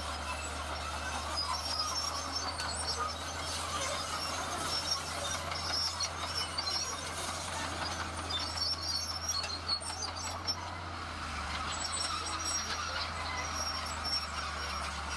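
Heavy diesel construction machinery working: a steady low engine rumble with scattered high metallic squeals and clinks over it.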